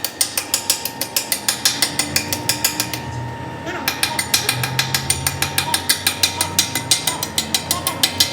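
Metal lathe running with a rapid, even clicking, about five to six clicks a second, over a steady machine hum. The clicking pauses briefly about three seconds in, then picks up again.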